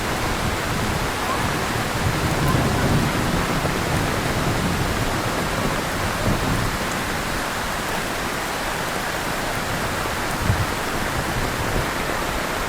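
Heavy rain falling steadily, a dense even hiss, with a low rumble swelling about two seconds in and a brief low thump near the end.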